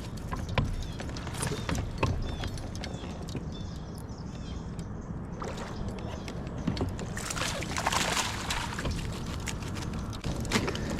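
Sharp clicks and knocks of fishing tackle and hull bumps in a kayak, with a rush of water splashing and sloshing alongside about seven to nine seconds in, as a small bass hooked on a squarebill crankbait is brought in.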